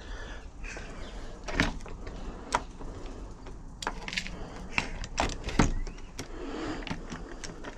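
A UPVC door's lock gearbox and latch being worked by hand: a series of sharp separate clicks and clunks, about seven, as the mechanism is operated.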